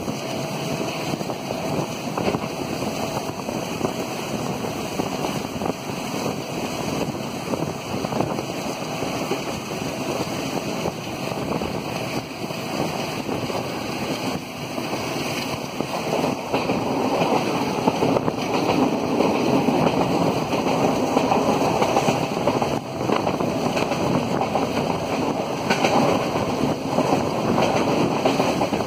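WDM3D diesel-hauled passenger train running at speed, heard from an open coach window: a steady rumble of wheels on rails mixed with wind on the microphone, growing louder about halfway through.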